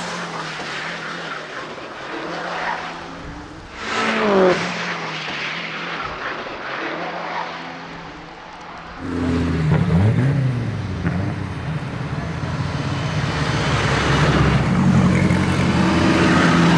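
Mitsubishi Evo 8's turbocharged two-litre four-cylinder racing engine on a hillclimb run, revving and dropping in pitch at gear changes; about nine seconds in it turns abruptly louder and deeper.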